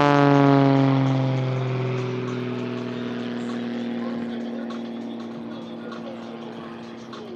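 Aircraft flying past low at an airshow, its engine tone sliding down in pitch as it passes and moves away, fading steadily.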